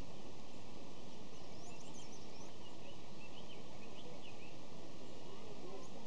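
Birds chirping in short, quick calls, mostly in the first half, over a steady background hiss.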